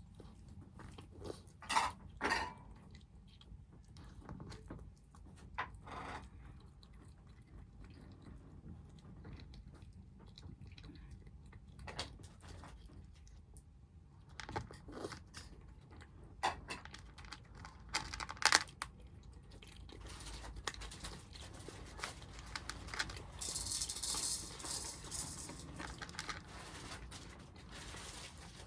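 Stray kittens eating, with intermittent sharp chewing clicks. About three-quarters of the way in there are a few seconds of hissy rustling noise.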